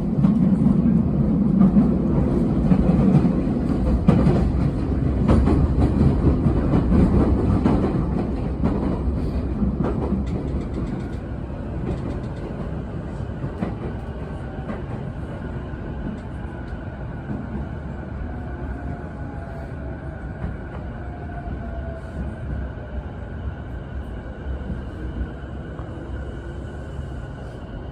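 Sotetsu electric commuter train heard from inside the car, its rumble and wheels clattering on the rails growing quieter over the first ten seconds or so as it slows for the station. A faint falling whine follows later, with thin steady tones.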